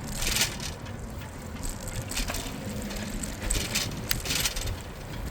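Bicycle riding along a city street: a steady low rumble of tyres and wind on the microphone, with several short bursts of hiss and a sharp click about four seconds in.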